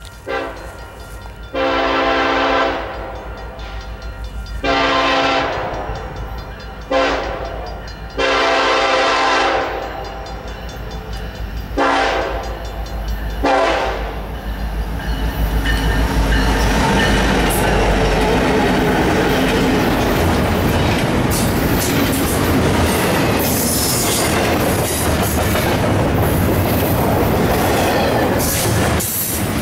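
Diesel freight locomotive horn sounding the grade-crossing signal, two long blasts, a short, a long, then two short toots, over the low rumble of the approaching locomotives' engines. From about 15 s in, the double-stack container train passes close by with a steady, loud clatter of wheels on rail.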